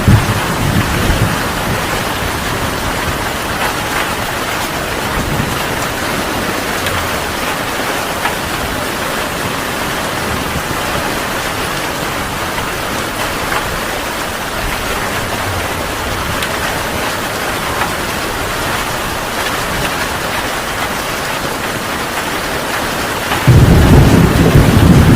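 Heavy rain falling steadily, with a low rumble of thunder at the start. Near the end a loud rumble of thunder comes in.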